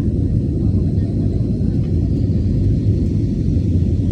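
Airliner during takeoff: a steady low rumble of engines and airframe with no change in pitch.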